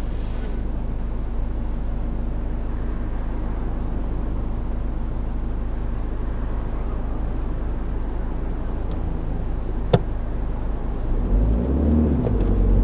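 Ford Focus 1.5 TDCi four-cylinder diesel heard from inside the cabin, with a steady low rumble. There is a single sharp click about ten seconds in. Near the end the engine gets louder and pitched tones rise, as the car pulls away.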